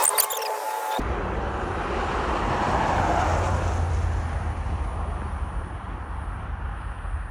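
A low, steady rumble with a hiss over it, like a vehicle going by, swelling for a few seconds and then easing off. It starts abruptly about a second in, after a brief run of gliding squeal-like tones.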